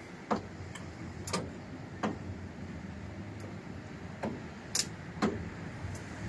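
A run of sharp, irregular clicks and knocks, roughly one every half second to second, over faint background noise.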